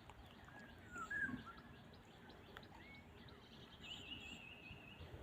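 Faint bird calls: a few short chirps about a second in, then a quavering trill near the end.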